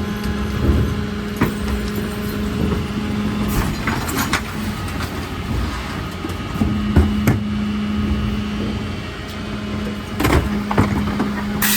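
Mercedes Econic refuse truck running with a steady hum, broken by scattered knocks and clanks, and a sharp burst of air hiss right at the end.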